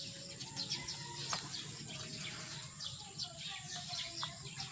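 Small birds chirping rapidly and repeatedly, many short falling chirps, over a soft, steady rustle of soil and rice hulls being worked by gloved hands.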